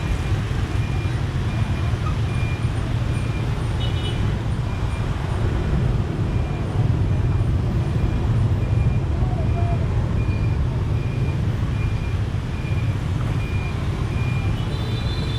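Motorbike riding through city traffic: a steady rumble of engine and wind, with a short high beep repeating evenly a little over once a second. A brief higher tone cuts in at about four seconds in and again near the end.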